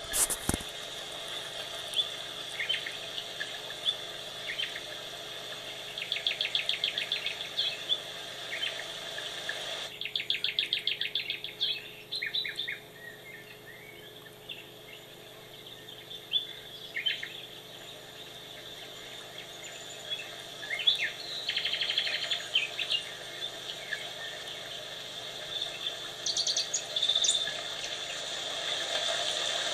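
Songbirds chirping and singing, with fast trills several seconds in and again around ten seconds, over a steady background hiss that drops away abruptly about ten seconds in.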